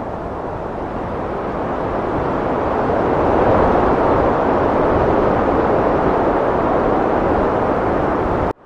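Heavy wind blowing hard and steadily, swelling into a stronger gust about two seconds in and holding there. Near the end it cuts out abruptly for a split second, then comes back.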